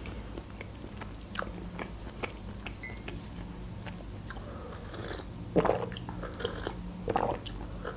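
Close-miked chewing of a mouthful of layered berry cake, with many small wet mouth clicks. About five and a half seconds in come louder sips and a swallow from a mug, and another about seven seconds in.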